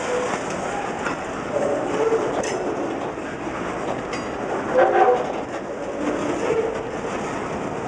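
Freight boxcars rolling slowly past at close range, the wheels clicking over the rail joints, with several brief metallic squeals from the wheels that are loudest about five seconds in.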